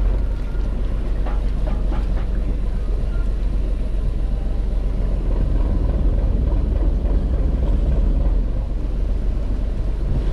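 Fishing boat's engine running steadily as a low drone, with wind on the microphone.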